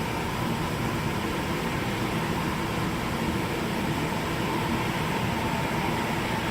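Steady mechanical drone and hiss with a faint high whine that holds one pitch, unchanging throughout.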